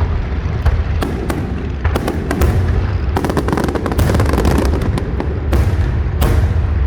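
Aerial fireworks display: many sharp bangs and crackles in quick succession over a continuous low rumble, most dense in the middle.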